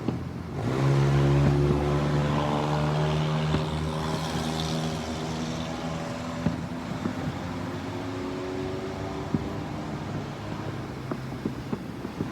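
A steady low engine drone that comes in about a second in and fades away after about six seconds, with faint pops of distant fireworks scattered throughout.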